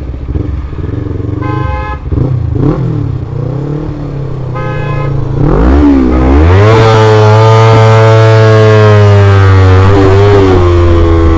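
Two short horn beeps about a second and a half and five seconds in, then a motorcycle engine revs up and holds a steady pitch for several seconds before easing off near the end, with a steady rush of wind and road noise throughout.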